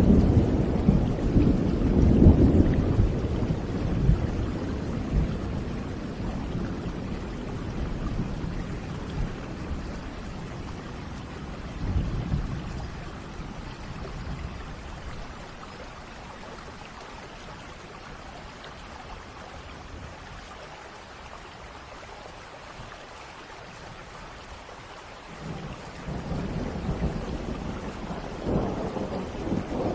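Steady rain with rolling thunder. A loud, deep rumble at the start fades away over several seconds, a shorter rumble comes about twelve seconds in, and another builds near the end.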